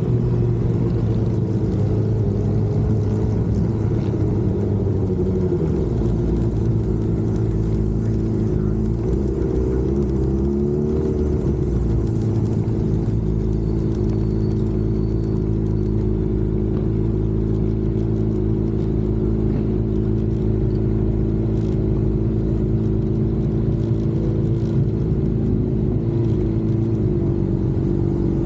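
Motorcycle engine running steadily under way, its pitch dipping and rising briefly a few times with small changes of throttle.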